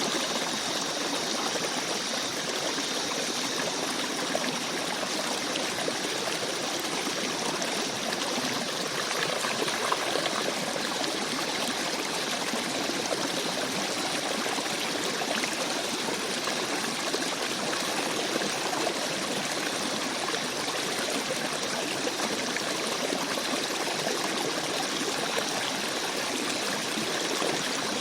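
A small forest stream babbling over rocks, a steady rush of running water with small splashing and trickling flickers.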